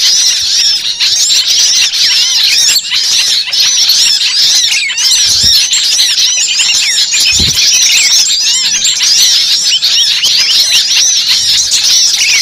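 A dense chorus of many small birds chirping and chattering at once, the calls overlapping without a break.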